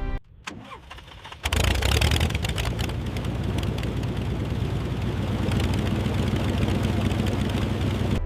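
The La-7 fighter's radial piston engine starting: a few faint clicks, then it catches suddenly about a second and a half in and runs steadily with a deep rumble.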